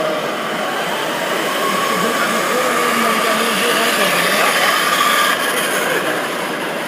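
Steady din of a busy exhibition hall, with indistinct voices in the background and a faint steady whine.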